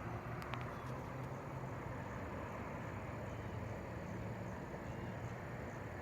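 Steady low outdoor rumble with a faint hum, a few faint clicks in the first second and faint short high chirps recurring through it.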